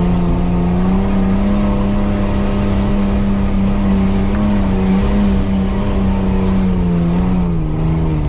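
Off-road 4x4's engine pulling steadily as it drives along a forest dirt track, heard from inside the cab. The revs rise a little just after the start and ease back down near the end.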